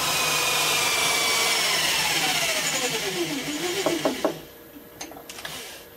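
Handheld electric drill boring a 6 mm hole in a block of wood, running steadily, then the trigger is let go and the motor winds down with a falling whine, stopping about four seconds in. A few light clicks follow.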